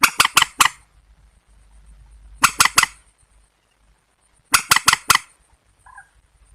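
Harsh, cackling calls of a rail-family waterbird, in three bursts of four or five quick notes each, about two seconds apart, over a faint steady high hiss.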